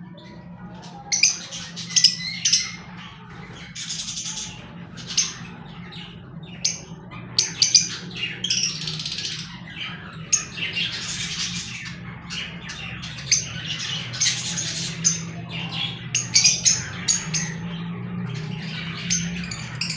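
A group of green Fischer's lovebirds chattering, with many quick, shrill chirps and squawks overlapping in bursts, over a steady low hum.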